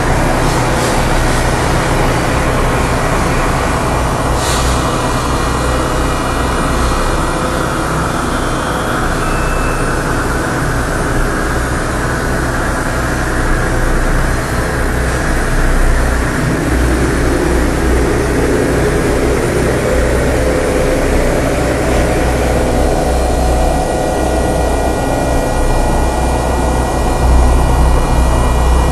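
Loud, steady low rumbling drone, like a distant jet or heavy engine, with faint high steady tones coming in over it about three-quarters of the way through.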